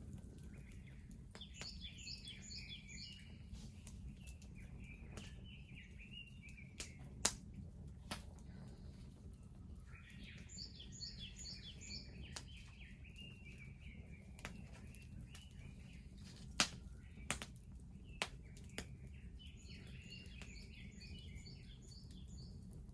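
Wood bonfire burning with a low steady rumble and a few sharp crackling pops, while a songbird sings a short phrase of quick repeated high notes three times, about nine seconds apart.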